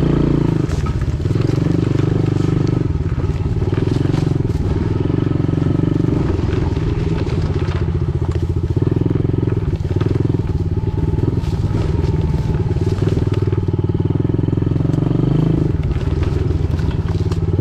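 Pit bike engine running while being ridden, mostly at a steady pitch, with the throttle eased and opened again several times.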